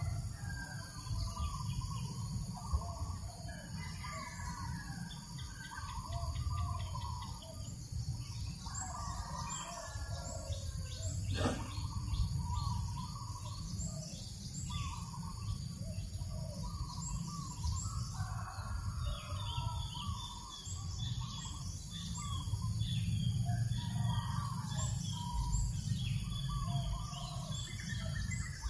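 Several birds chirping and calling at once, with many short overlapping calls throughout, over a steady low rumble of breeze.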